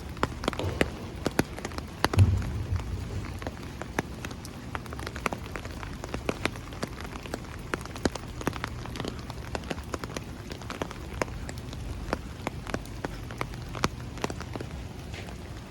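Steady rain falling, with many irregular sharp drip taps landing close to the microphone. There is one louder low thump about two seconds in.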